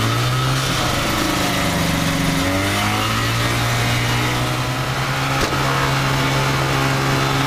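Kitfox light aircraft's engine and propeller running. The engine note rises and falls with the throttle over the first three seconds, then settles to a steady pitch. A single sharp click comes about five seconds in.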